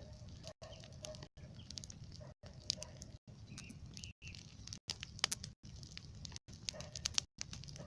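Wood campfire crackling with irregular sharp snaps and pops, with a few faint bird chirps. The recording drops out briefly about once a second.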